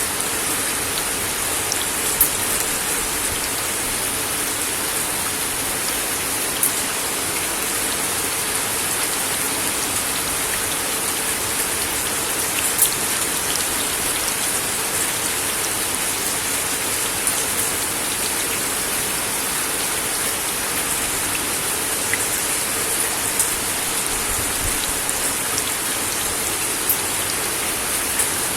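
Steady rain falling on a wooden deck, a dense even hiss with scattered louder single drop hits.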